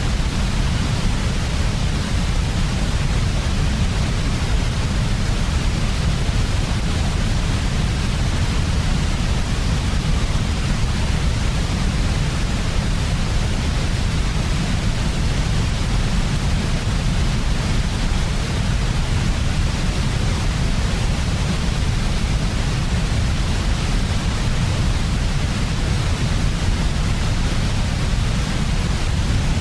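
Generated sleep noise of the kind sold as white noise for babies: a steady, even hiss with a heavy low rumble underneath and no change in level.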